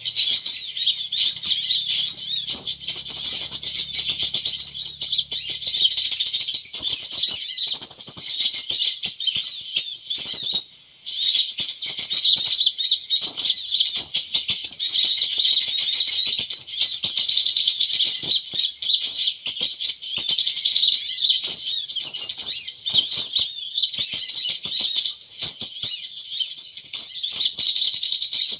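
Small birds chirping in a dense, continuous high-pitched stream, with a short break about eleven seconds in.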